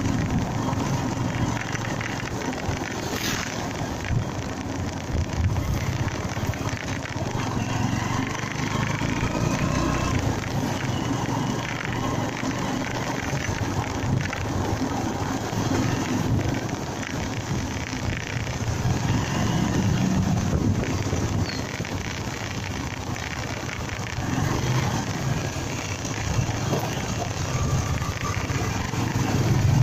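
Honda Mega Pro single-cylinder motorcycle being ridden on the road: steady engine and road noise with a low rumble.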